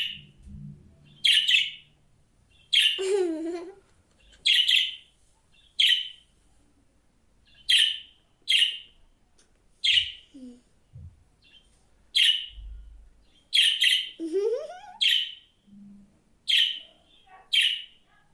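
Pet budgerigar chirping: short, sharp, high chirps about once a second, with a longer note that rises steeply in pitch twice.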